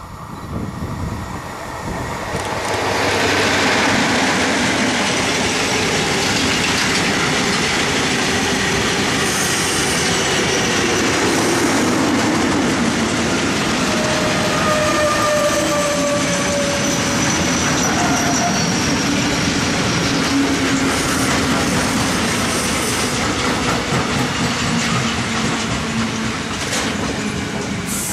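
Freight train of tank wagons hauled by an electric locomotive passing close by: loud, steady rolling noise of wheels on rails. It swells over the first few seconds as the locomotive arrives, has a few brief squealing tones about halfway through, and eases near the end as the last wagons pass.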